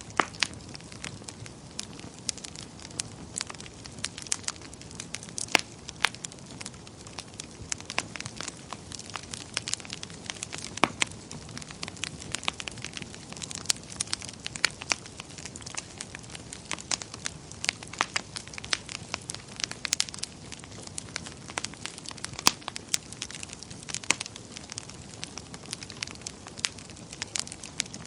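Wood fire burning in a fireplace, crackling with frequent irregular sharp pops over a steady low hiss.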